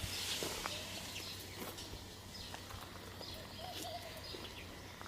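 Birds chirping in an outdoor soundscape, with a short warbling call near the end and a few scattered clicks over a steady low background.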